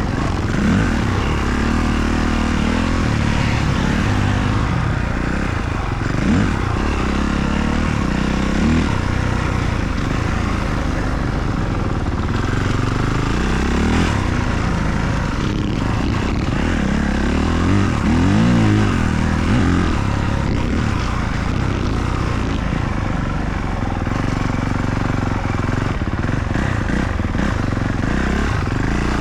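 Motocross dirt bike engine being ridden hard, its pitch rising and falling over and over with the throttle and gear changes.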